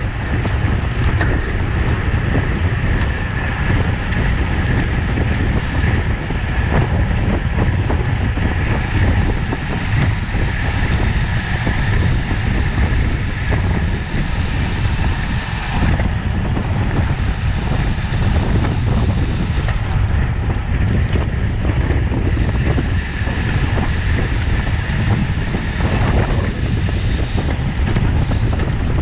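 Wind rushing over the microphone of a camera on a racing bicycle, a loud steady buffeting noise, with a faint steady whine above it.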